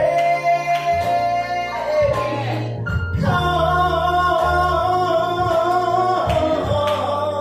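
A singer holding long sung notes with vibrato over guitar and bass accompaniment.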